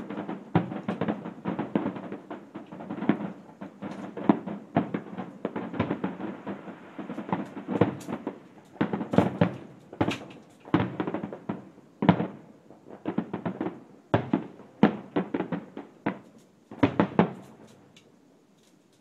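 Fireworks and firecrackers going off in a rapid, irregular string of bangs and pops, some in quick clusters. The bangs thin out near the end.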